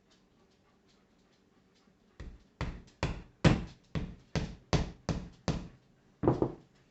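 Hammer driving a short nail into a small wooden kit piece: about ten sharp blows, two or three a second, starting about two seconds in, with a short pause before the last.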